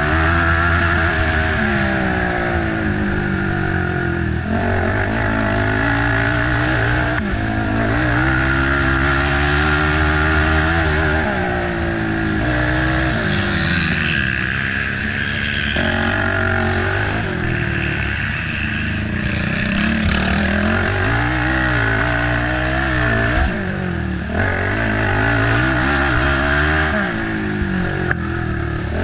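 Race ATV engine running hard, its pitch climbing and dropping again and again with throttle and gear changes.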